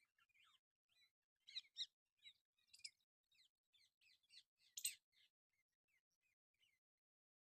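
Faint bird chirping: a rapid run of short, high twittering notes, louder around two seconds and five seconds in, thinning out near the end.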